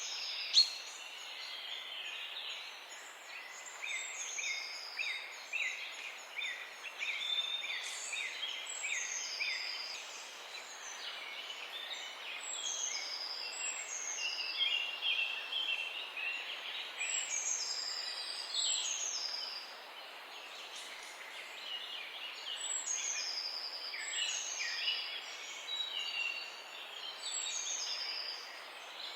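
Morning chorus of several songbirds chirping and singing, with many short, overlapping phrases, the higher ones falling in pitch, over a steady outdoor hiss. A single sharp click comes about half a second in.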